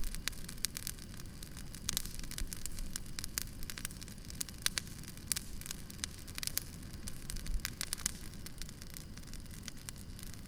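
Wood campfire crackling, with irregular sharp pops and snaps of burning wood over a steady low rumble of the flames.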